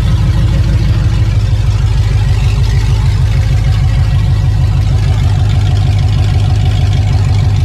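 Pontiac G8's engine idling steadily, a loud, low, even exhaust note.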